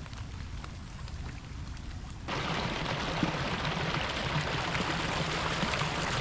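Steady hiss of water that starts suddenly about two seconds in, over a low rumble of wind on the microphone.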